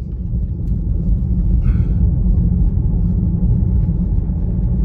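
Steady low road and tyre rumble inside the cabin of a Tesla Model Y on the move, picked up by a phone on the dashboard. It grows slightly louder in the first second.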